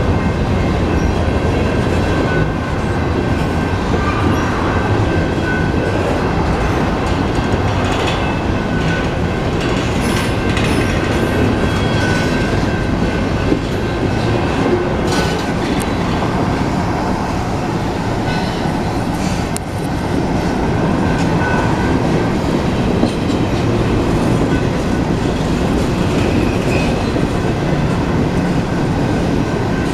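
Union Pacific freight train of hopper cars rolling slowly past, a steady rumble of steel wheels on rail with scattered clicks and thin squealing tones from the wheels.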